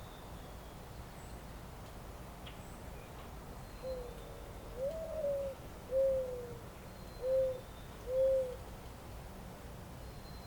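A dove's cooing song: five low hoots, the second rising and held longest, the last three shorter and evenly spaced. Behind it runs a steady faint hiss of outdoor ambience, with a few faint high chirps.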